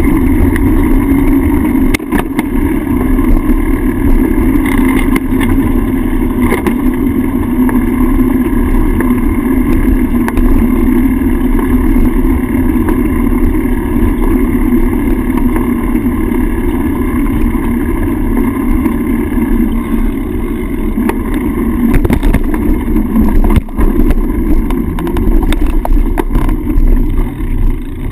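Steady wind rush and road rumble on a handlebar-mounted GoPro on a moving bicycle, with a few short clicks.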